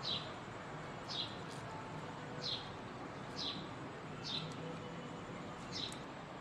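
A small bird calling repeatedly, short falling chirps about once a second, faint over a steady background hiss.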